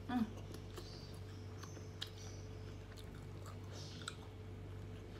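Faint close-up chewing of a mouthful of spicy crispy fried shrimp, with a few soft clicks and crackles.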